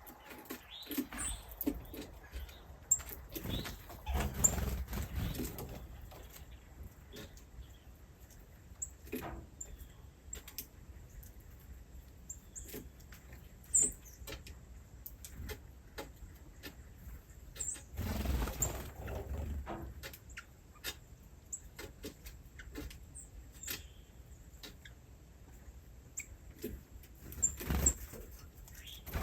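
Small birds giving scattered short, high chirps, with a few clicks and two spells of rustling.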